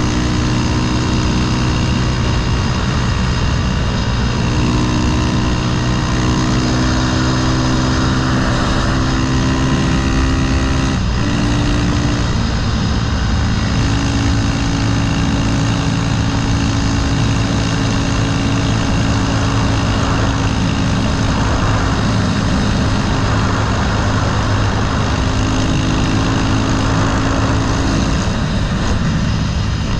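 A Honda Grom's swapped-in CBR300R single-cylinder engine running under way through a Yoshimura silencer, its note held steady and then stepping up or down several times as the rider shifts and changes throttle, with a brief dip about a third of the way in.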